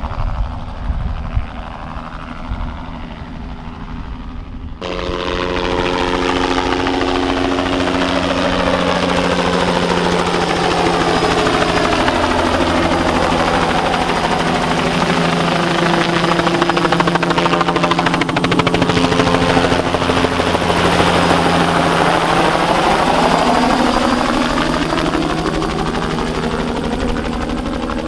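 Bell 206B-3 JetRanger III helicopter, a single Allison 250 turboshaft driving a two-blade rotor, flying low on a spraying pass. After a few seconds of low rumble its sound cuts in suddenly, loud, with steady turbine and rotor tones. Its sound sweeps as it passes close by, loudest in the middle and easing off slightly near the end.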